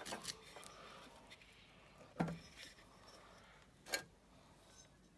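A few light metal knocks and clinks of hand tools working on an engine's flywheel puller, the clearest about two seconds in and about four seconds in.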